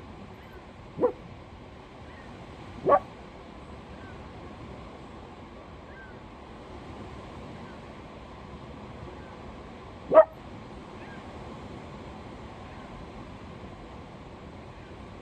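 Steady background hiss broken by three short, sharp sounds: about one second in, three seconds in, and ten seconds in.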